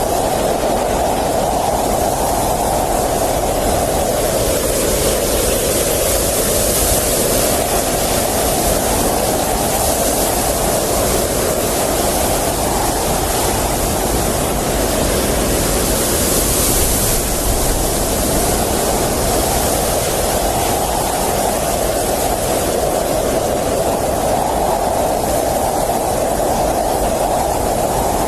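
Blizzard wind blowing steadily, its hollow howl slowly rising and falling in pitch every few seconds over a constant hiss.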